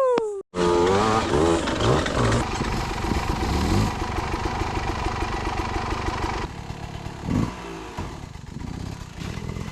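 Dirt bike engine revving up and down in quick blips, then running steadier and dropping to a lower level, with one short rev near the end.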